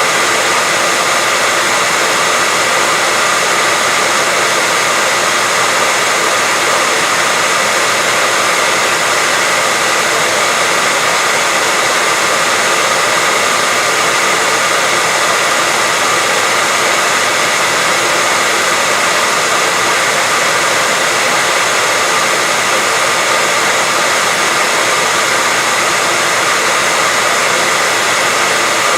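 White noise: a steady, unchanging hiss, strongest in the high range, with a faint steady tone running through it.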